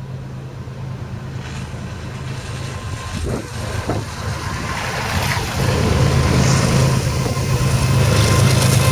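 Diesel locomotive engine drone of an approaching freight train, a steady low hum growing steadily louder.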